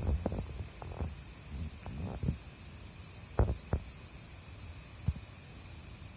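Night insects trilling steadily in a high, thin band, with a few short dull knocks and rustles; the loudest is a pair of knocks about three and a half seconds in.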